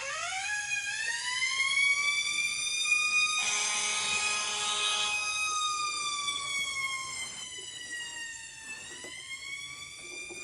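Fire engine's Federal Q mechanical siren winding up, holding its scream, slowly coasting down in pitch and then winding up again near the end. For about two seconds in the middle a second, buzzier steady tone sounds over it.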